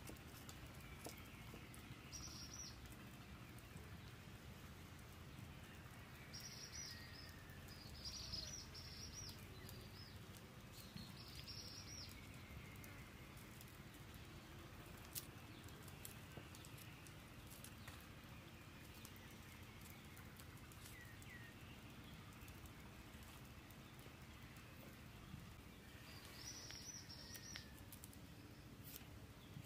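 Faint background with several short bursts of high bird chirping, and light scattered clicks of a cleaver slicing garlic cloves held in the hand.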